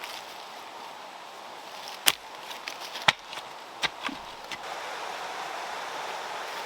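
Water running steadily, with several sharp knocks about two to four seconds in; the rush of water gets louder near the end.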